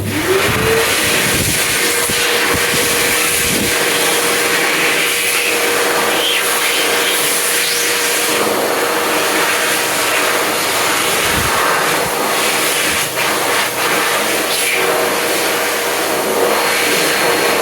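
Jofel electric hand dryer starting up, its motor whine rising within the first second and then holding one steady pitch over a loud rush of blown air.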